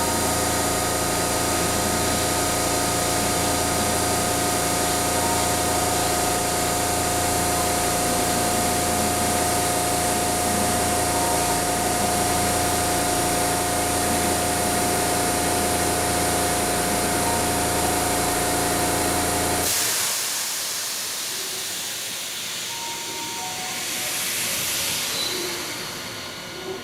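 Keihan 3000 series train giving a steady hum and hiss with several held tones. About twenty seconds in the sound cuts off suddenly to a quieter hiss that swells and fades.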